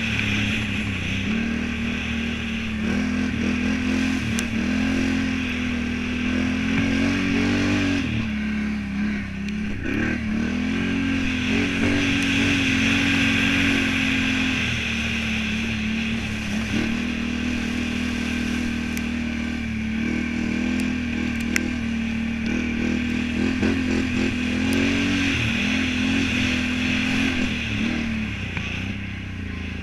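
Can-Am Renegade 1000 ATV's V-twin engine running hard on a motocross track, the revs rising and falling in waves as the throttle is worked, with a sharp drop in revs about eight seconds in.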